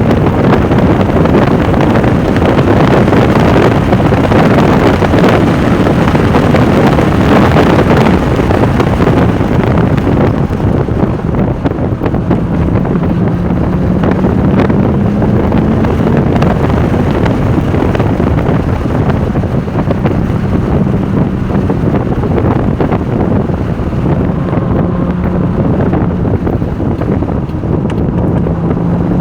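Porsche 996 Turbo's twin-turbocharged flat-six under load at track speed, buried in heavy wind and road noise. The engine note climbs several times as it pulls up through the revs.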